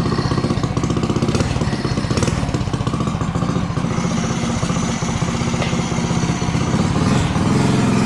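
Coleman CC100X minibike's 3-horse single-cylinder engine running steadily near idle, its ignition timing advanced with an offset flywheel key; the engine speed picks up a little near the end.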